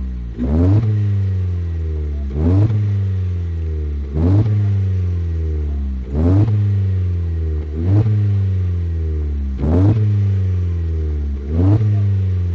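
Ford Fiesta MK7 engine revved through a Milltek cat-back exhaust in a regular series of throttle blips, about one every two seconds. Each rev climbs quickly, then the exhaust note falls slowly back toward idle before the next.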